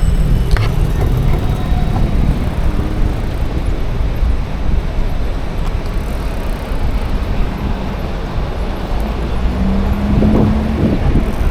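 City traffic and road noise heard from a moving bicycle, with heavy rumble of wind on the microphone. A short, steady low tone lasts about a second near the end.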